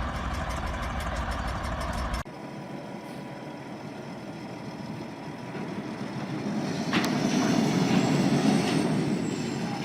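Heavy vehicle running, a steady rumble that cuts off abruptly about two seconds in. A quieter vehicle rumble follows and swells about seven seconds in, with a sharp click at that point.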